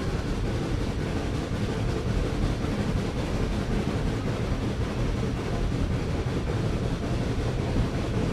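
Steady low rumble of a moving excursion train, with an even noise spread across the higher pitches and no distinct rhythm or whistle.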